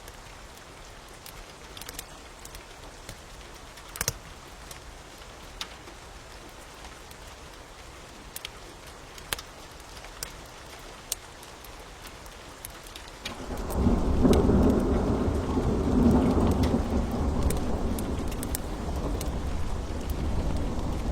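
Steady rain hiss with the sharp pops of a crackling wood fire. About thirteen seconds in, a long low rumble of thunder rolls in and carries on, the loudest sound.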